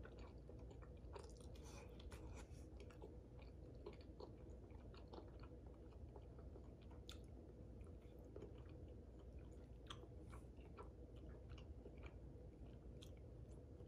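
Faint chewing and wet mouth sounds of someone eating soft lasagna, with many small scattered clicks over a low steady room hum.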